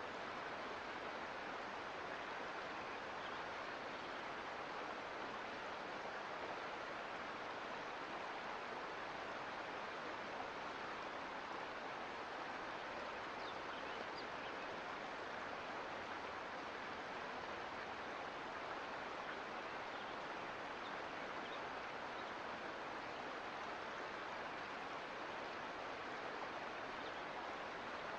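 Mountain creek water flowing over rocks, a steady, unbroken rush.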